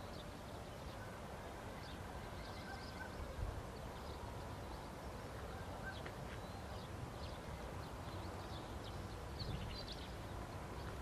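Faint bird calls, short scattered chirps, over a low steady rumble.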